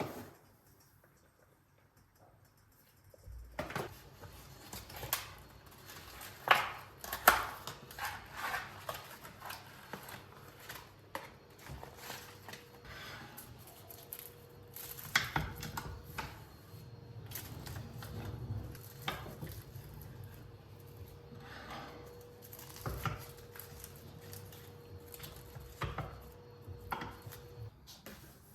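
Kitchen clatter: a string of clicks, knocks and clinks as dishes and utensils are handled, starting a few seconds in. A steady faint hum joins about halfway through and stops shortly before the end.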